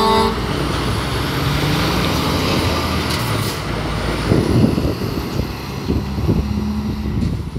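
Scania S500 truck's diesel engine running as it moves off, with the tail of a horn note at the very start and a short air-brake hiss about three seconds in.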